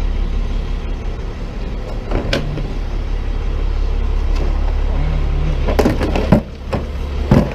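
Truck engine idling steadily, with a few sharp knocks and clatters of objects being handled on the trash pile, the loudest near the end.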